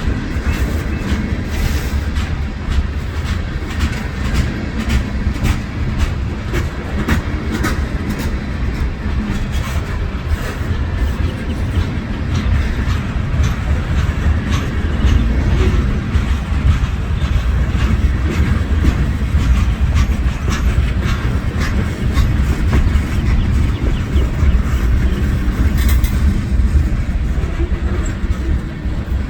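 Train passing by, its steady rumble laced with quick, irregular clicks of wheels running over the rails.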